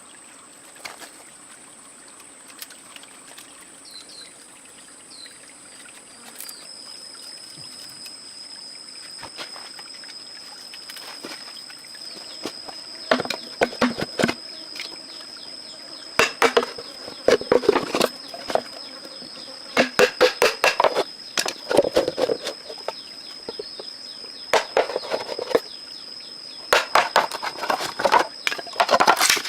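Insects shrilling steadily in two high, thin tones, one of them joining a few seconds in. From about halfway on there are repeated bursts of crackling and rustling, louder than the insects.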